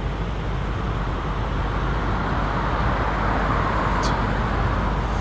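Steady rushing roar of a large waterfall pouring over a dam. A brief high tick sounds about four seconds in.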